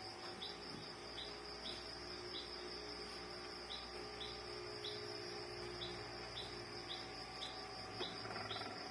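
A bird chirps repeatedly in the background, about two short chirps a second, over a steady high-pitched hum, with a few faint light clicks near the end.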